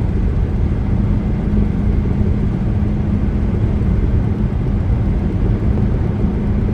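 Steady road noise of a moving car, heard from inside: a low, even rumble of tyres and engine with a steady hum underneath.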